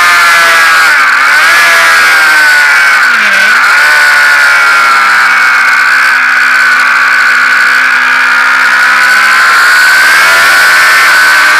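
Sport motorcycle engine running hard at high revs, heard from a camera mounted on the bike. The revs dip and pick up again twice in the first few seconds, hold steady through a long stretch, and rise again near the end.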